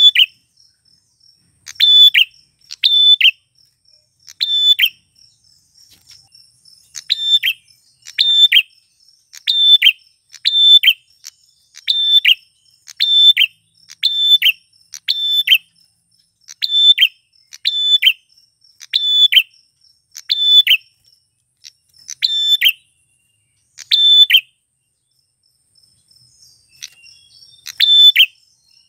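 Male prenjak klawu (a small prinia-type songbird) calling: short, sharp chirps repeated about once a second, often in pairs, with a pause of about two seconds near the end. A faint, steady high buzz runs underneath.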